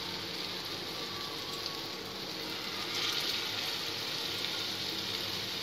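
Chicken reshmi kababs shallow-frying in hot oil in a pan, sizzling steadily; the sizzle grows louder about three seconds in as a second kabab goes into the oil.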